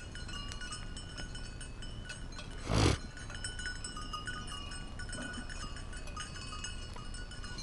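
Sheep bells (chocalhos) clinking and jangling irregularly as sheep move about. About three seconds in there is one brief, loud rush of noise.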